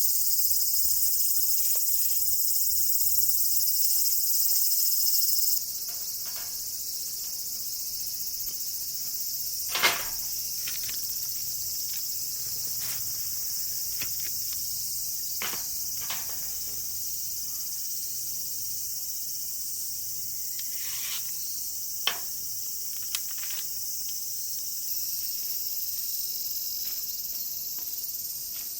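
Steady high-pitched chorus of insects chirring. A few scattered sharp clicks and knocks sound over it, and the chorus drops in loudness about five and a half seconds in.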